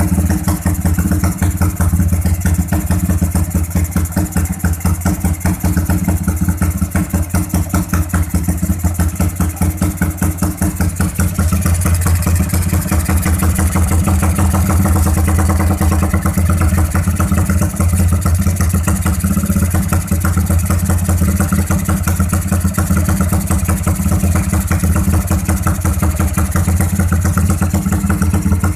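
Engine running at a steady idle through an RJM Progressive aftermarket exhaust muffler, a deep, even pulsing exhaust note with no revving.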